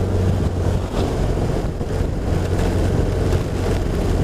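BMW R1200RT flat-twin engine running steadily at cruise, under wind buffeting on the helmet mic and the hiss of tyres on a wet road.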